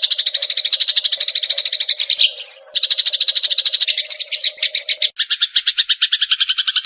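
Sparrows giving the fighting call: a very fast, loud, rapid-fire chirping chatter. There is a brief break with a single rising whistle about two and a half seconds in. From about five seconds in, the chirps turn into a slightly slower, two-pitched series.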